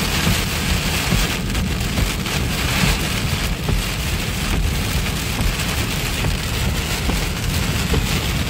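Heavy rain drumming on a moving car, heard from inside the cabin, with a steady low rumble underneath.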